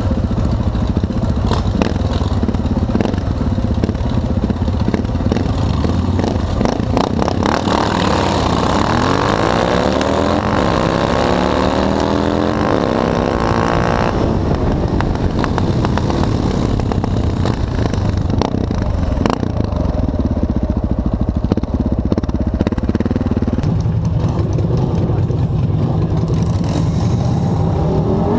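Motorcycle engine idling steadily, while a motorcycle accelerates hard from about eight seconds in, its pitch climbing again and again through gear changes for several seconds before dropping away.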